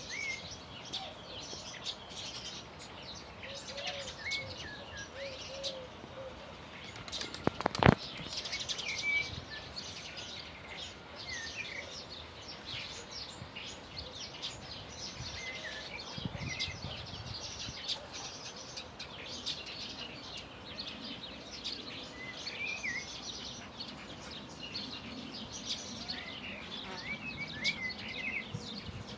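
Songbirds chirping and singing, with many short high calls and trills overlapping throughout. A brief burst of sharp knocks about eight seconds in is the loudest moment.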